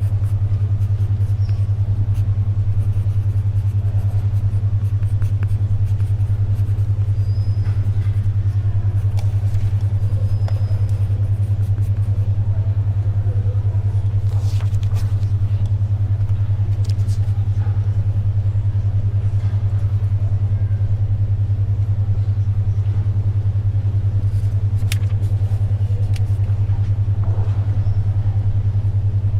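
A loud, steady low hum pulsing rapidly and evenly: a 10.2 Hz alpha-wave brainwave tone. Under it is faint library background with scattered small clicks and rustles of pages turning and pencil writing.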